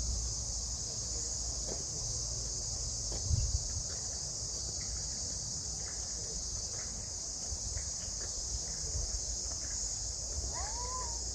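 Steady high-pitched chorus of cicadas, with a short bird call near the end.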